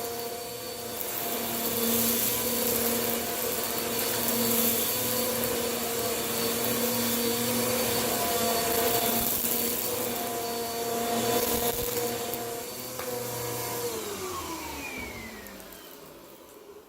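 Vacuum cleaner running and sucking up crunchy dirt, its steady motor hum broken by several swells of rattling, hissing pickup noise. Near the end the motor is switched off and its pitch slides down as it winds down.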